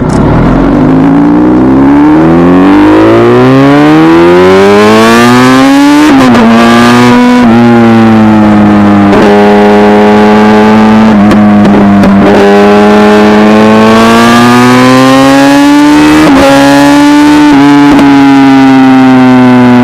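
Kawasaki ZX-10R inline-four engine accelerating hard, its pitch climbing smoothly for about six seconds before dropping at a gear change. It then holds at high revs with a few brief dips and another slow rise.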